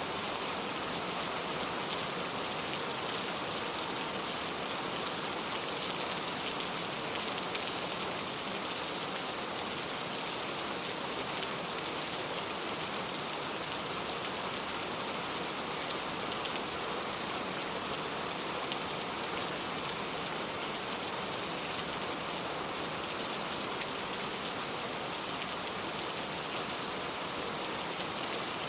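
Heavy rain pouring steadily, a dense even hiss of falling water with many fine drop ticks on hard surfaces.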